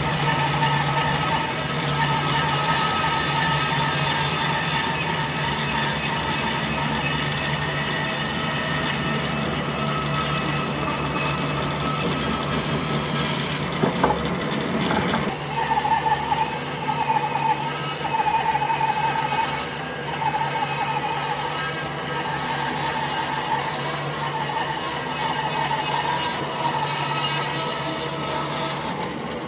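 A power tool running steadily while it cuts or abrades wood, its pitch and rhythm shifting about halfway through.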